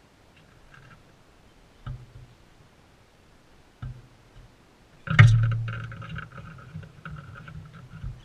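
Contact noise on a GoPro at a bird feeder: two light knocks, then a loud thump about five seconds in and about three seconds of scraping and scuffling close to the microphone, as a feeding parrot moves against the feeder and camera.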